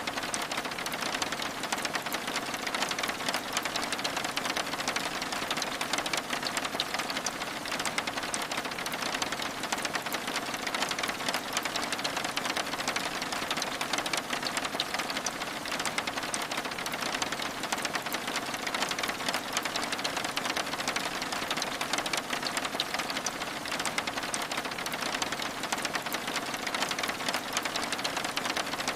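Steady rain, a dense unbroken patter of many fine drops on window glass.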